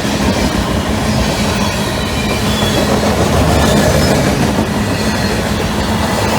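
Cars of a long CSX freight train rolling past, a steady rumble of steel wheels on rail.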